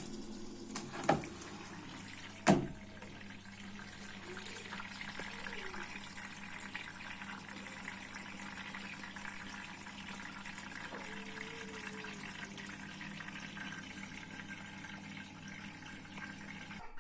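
Hotpoint Ariston WMSF 6038 washing machine taking in water: a steady rush of filling water over a low steady hum. Two sharp knocks come in the first few seconds, and the sound cuts off abruptly just before the end.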